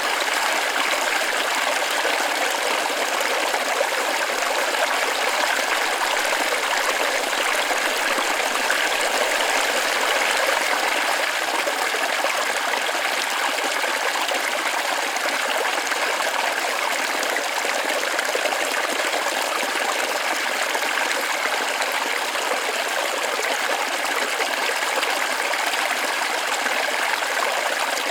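Forest waterfall running steadily: an even, unbroken rush of falling and splashing water, with little deep rumble.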